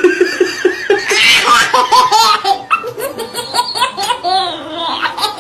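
Hearty laughter in quick repeated bursts, the pitch rising and falling.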